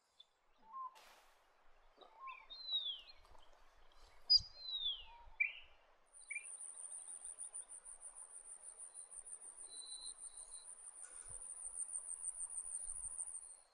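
Black honeyeater calling: a few thin, high whistles, each falling in pitch, in the first half. From about halfway, a high insect trill of even rapid pulses runs on behind them.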